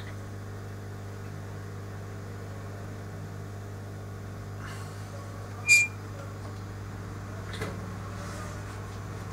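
Steady low electrical hum, with a few light clicks and one short, sharp click-like sound about six seconds in.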